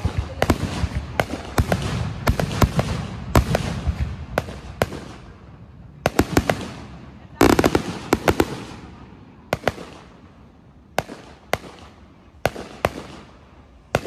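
Fireworks going off: a quick string of sharp bangs and crackle, densest in the first five seconds, with a loud cluster of bangs about seven and a half seconds in, then single bangs every half second to a second.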